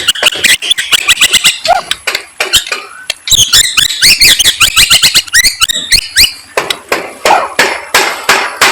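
Murai songbird singing: a fast, varied run of sharp clicks and chattering notes mixed with short whistled phrases that rise and fall, densest from about three to six seconds in.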